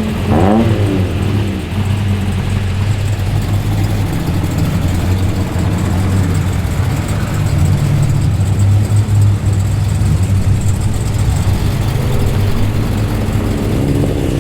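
Performance car engine rumbling loudly at low revs as the car rolls in, with a quick rev about half a second in.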